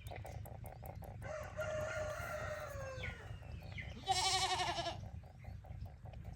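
Farm animal calls: a long pitched call about a second in, falling at its end, then a louder, quavering goat bleat about four seconds in.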